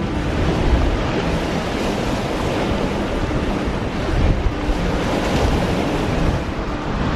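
Waves washing against a rocky lakeshore, a steady surf noise with wind rumbling on the microphone.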